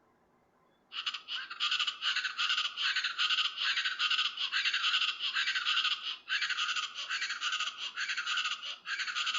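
East Brazilian chachalaca calling: loud, raspy calls repeated in a steady pulsing rhythm, starting about a second in, with a brief break about six seconds in.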